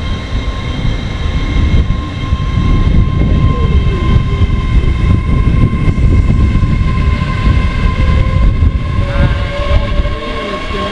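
Passenger train running through the station: a heavy, steady low rumble with several whining tones over it. From about eight seconds in, one of those tones rises slowly in pitch as the train's motors pick up speed.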